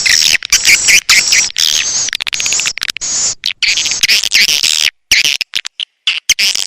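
Recorded swiftlet calls used as a lure track to draw swiftlets into a nest house: dense, high, rapid chirping twitter with a fast clicking trill. About five seconds in, it breaks into short, separate chirps with silent gaps between them.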